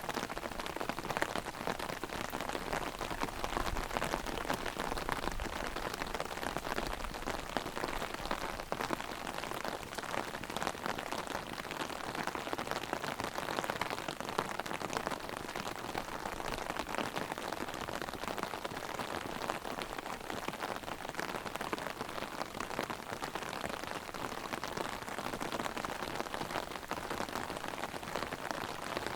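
Heavy rain pattering steadily on an umbrella, with a dense, even run of fine drop impacts.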